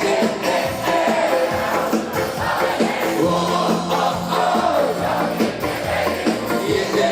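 Ska band playing live: a steady drum beat under held instrumental notes and singing, with crowd noise.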